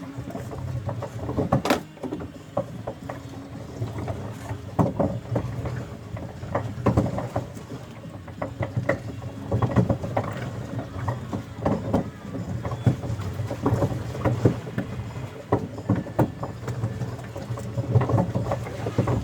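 A small boat out on the water: irregular knocking and clatter over a steady low rumble.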